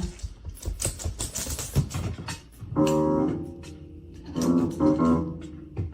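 A few unevenly struck, held notes on a keyboard instrument, coming in two short clusters after a couple of seconds of irregular clicking and knocking.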